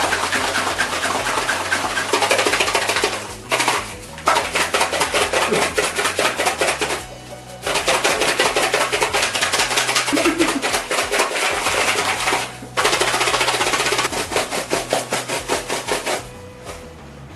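Small biscuit snacks rattling hard inside their boxes as they are shaken fast, in long stretches broken by three short pauses, ending a little before the close. Faint background music runs underneath.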